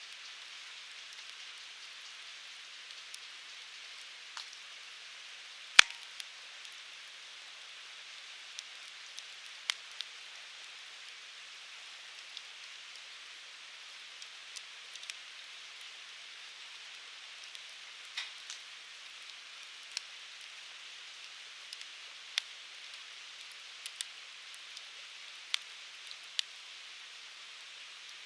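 Firewood burning with a steady hiss and scattered sharp crackles and pops, the loudest about six seconds in.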